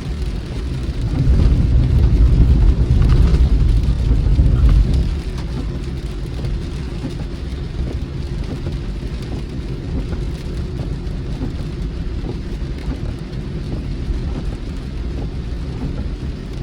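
Rain pattering on a moving car, heard from inside the cabin over the steady low rumble of the drive. A louder deep rumble swells about a second in and fades about four seconds later.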